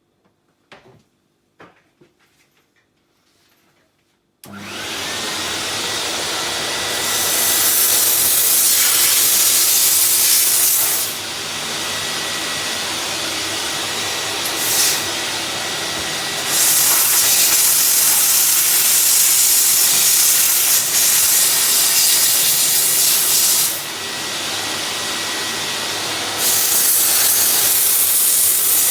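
A few faint clicks, then about four seconds in a steam cleaner starts with a sudden steady hiss. The jet gets louder and hissier in several stretches of a few seconds each, easing back in between.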